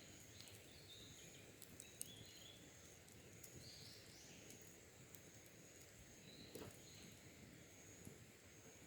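Faint wild birdsong: a thin, high call repeated about once a second, with short chirps between, and a few small sharp pops from a wood fire burning down to embers.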